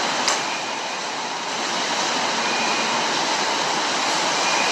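Steady rushing of flood or surf water, with one short click about a third of a second in.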